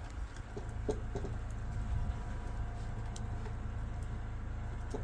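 An engine running steadily with a low rumble, and a few short knocks over it.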